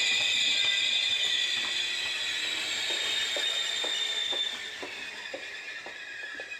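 Trenitalia regional train of coaches rolling past, its wheels squealing in several steady high tones, with a series of light clicks from the wheels over the rails; the squeal drops away about four and a half seconds in and the sound fades.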